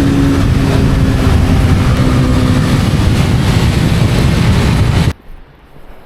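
Honda CB250R motorcycle riding, its engine under loud wind rushing over the microphone; the sound cuts off suddenly about five seconds in.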